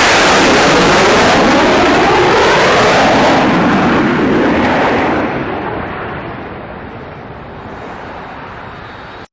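An aircraft flying low overhead: a loud engine noise with a sweeping fall in pitch as it passes, then fading into the distance until the sound cuts off abruptly.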